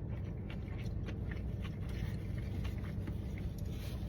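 Close-up chewing of a mouthful of sushi: soft, irregular wet clicks and smacks of the mouth, over a steady low rumble.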